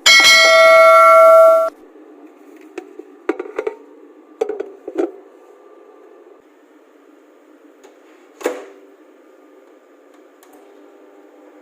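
Microwave oven beeping with one long electronic tone of under two seconds, then a few clicks and knocks over a steady low hum.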